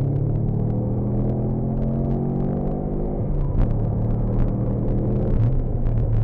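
Subaru Legacy Turbo's turbocharged flat-four engine running under way, heard from inside the cabin, its pitch easing down over the first few seconds and then holding. Scattered sharp clicks and knocks come in from about halfway.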